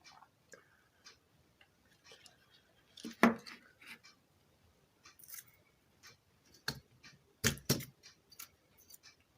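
Scattered small clicks and taps of hand tools and parts being handled on an amplifier circuit board during transistor testing and removal, the sharpest knocks a little after three seconds and a cluster of them later on.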